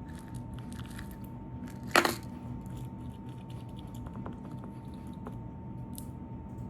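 Small crackling and clicking handling noises from slime-making materials and containers, with one short, sharp noise about two seconds in. A faint steady tone hums underneath.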